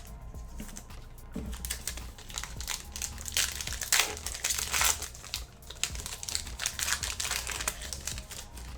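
A trading-card pack wrapper being torn open and crinkled by hand: dense, irregular crackling that starts about a second and a half in and is loudest midway.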